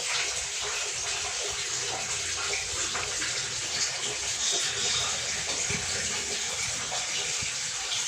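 Water pouring steadily out of a washing machine's drain as the clogged drain is opened, letting out the water that had stayed in the tub.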